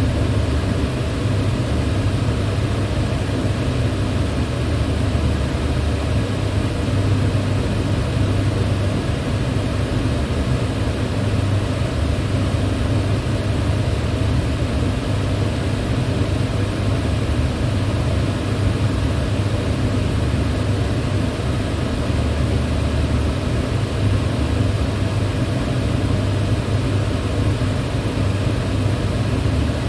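Electric fan running steadily: an even rush of air over a low hum, with no change in speed or pitch.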